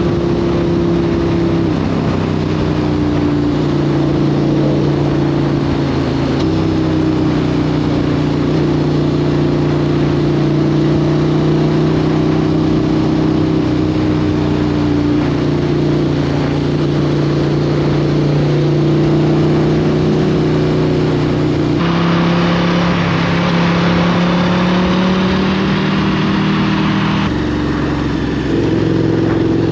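KTM 1290 Super Duke's V-twin engine running steadily under way, with wind rush. The engine note steps in pitch a few times, and the background noise changes abruptly twice near the end.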